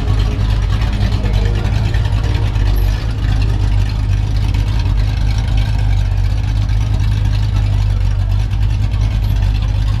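A car's engine running steadily with a loud, deep exhaust rumble.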